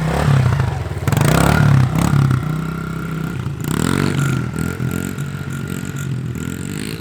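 Small pit bike engine running and being revved, with a loud burst of revving about a second in and another rise about four seconds in before it settles to a steadier run.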